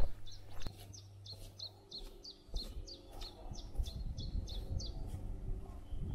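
A small bird singing a fast run of short, high, falling chirps, about three a second, that stops a little before the end. Under it is a low rumble, heavier in the second half.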